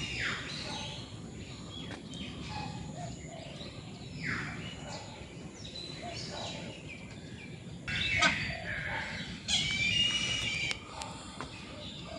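Mixed birds calling in an aviary: falling whistled notes and repeated chirps, with louder harsh chattering calls about eight and ten seconds in, over a steady background noise.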